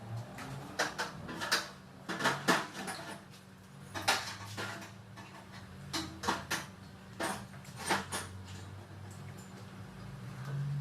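Metal tools and parts clinking and clanking, about a dozen irregular sharp knocks, over a faint steady hum.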